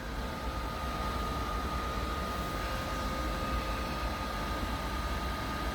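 A train entering the station: a steady rumble and hiss with a thin, constant whine over it, no change in level.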